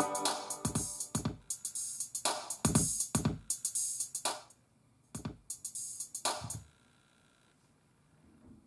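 Built-in drum machine of a NUX Mighty Air guitar amp playing a drum beat through its small speakers. The beat stops about halfway through, plays again briefly, and cuts off about two-thirds of the way in.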